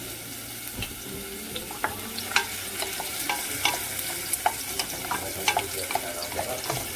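Chopped onion sizzling in hot coconut oil in a pan, stirred with a utensil that scrapes and knocks against the pan at irregular moments.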